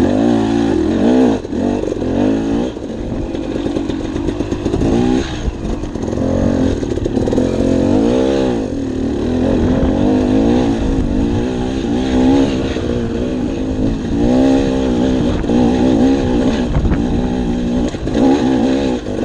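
Dirt bike engine running under load on a trail climb, its pitch rising and falling again and again with the throttle.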